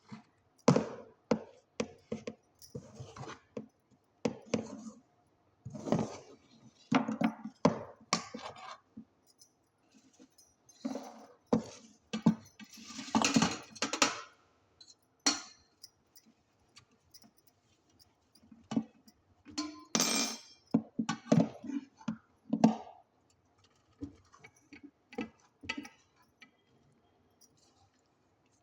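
Kitchen utensils clinking and knocking at irregular intervals, some strikes ringing briefly.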